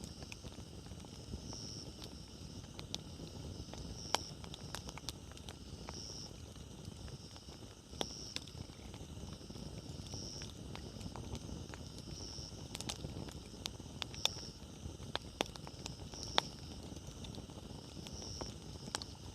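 Wood fire burning: a low steady rumble of flames with irregular crackles and sharp pops from the firewood. A faint high-pitched pulse repeats about every two seconds behind it.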